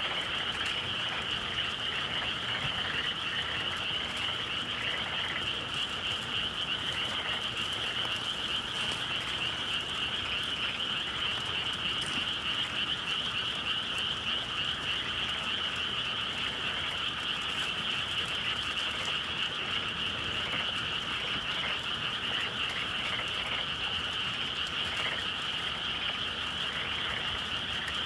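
Dense chorus of many frogs calling at once, a steady, unbroken trill.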